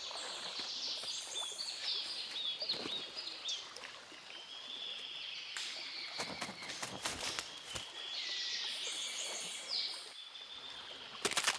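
Tropical rainforest ambience: birds chirping over steady high-pitched buzzing, with a few sharp clicks or knocks and a louder cluster of clicks near the end.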